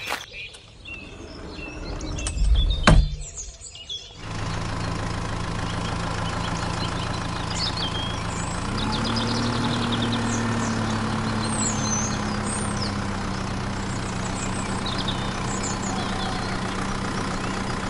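A few knocks, the loudest about three seconds in, then about four seconds in a tractor engine starts running steadily, its pitch rising slightly after about eight and a half seconds and holding there. Birds chirp throughout over the engine.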